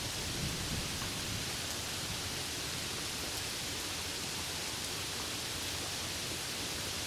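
Steady rain falling, an even hiss with a few faint drop ticks and no thunder.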